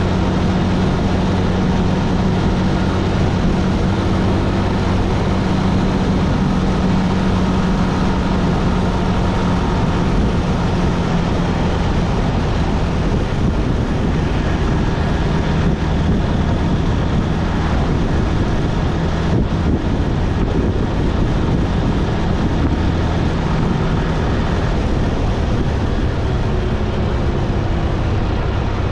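Motorcycle engine running at a steady cruising speed, a continuous low hum under wind and road noise, its pitch shifting slightly partway through.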